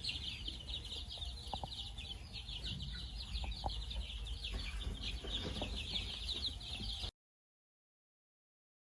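A dense chorus of rapid, high chirps from many animals at once, which cuts off suddenly about seven seconds in and is followed by silence.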